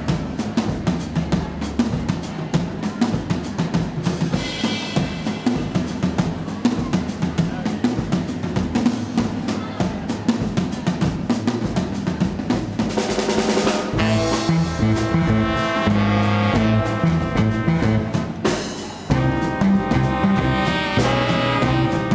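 Live swing band: a drum kit plays alone with snare, bass drum and rolls, then the horn section and the rest of the band come in about fourteen seconds in, with a brief break a few seconds later.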